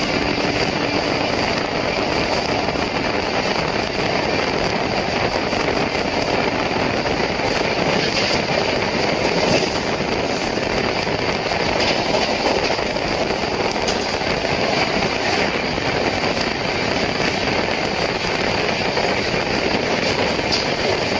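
A passenger express train running along the line: a steady rumble and rush of wheels on rails and moving air.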